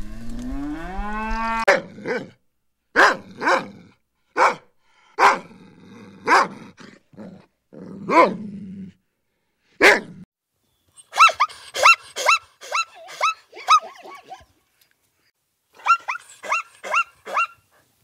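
A cow's moo rising and ending in the first two seconds, then a puppy barking and yelping in short, separate calls. In the second half the calls come in quick runs of higher yelps.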